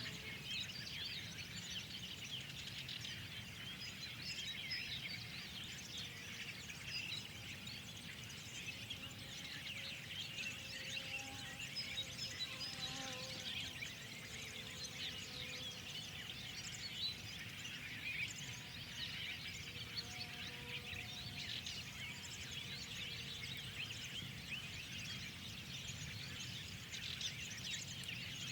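A dawn-chorus-like mix of many small birds chirping and twittering continuously and overlapping, with a few lower, longer whistled notes now and then over a faint low rumble of background noise.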